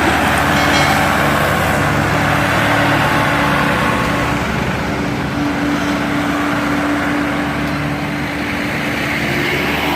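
Diesel tractor engine running steadily with a low hum while hauling a loaded sugarcane trolley, with road and rolling noise.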